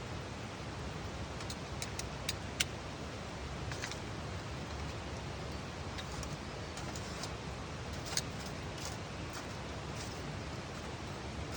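Campfire crackling: scattered sharp snaps and pops of burning wood, the loudest about two and a half seconds in and again about eight seconds in, over a steady background noise.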